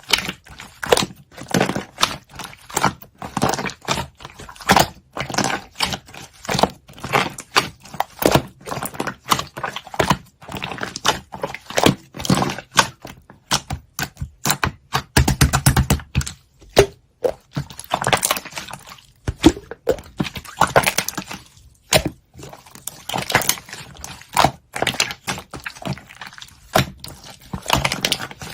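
Slime being pressed and poked by hand, giving a dense, irregular run of sticky clicks and pops.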